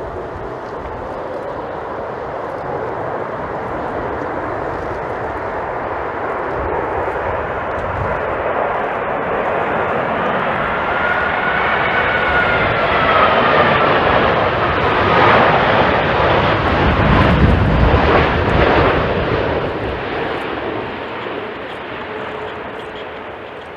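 Jet airliner's engines passing close by on approach: a broad roar builds, peaks past the middle and fades away, with an engine whine that rises and then drops in pitch as the aircraft goes by.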